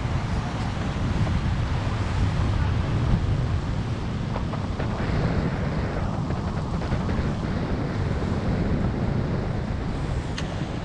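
Strong wind buffeting the microphone in a steady low rumble, with ocean surf washing underneath.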